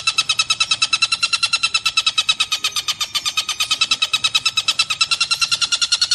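Kingfisher (tengkek buto) giving a long, fast rattling call: an even string of sharp, high notes, about a dozen a second, with no pause.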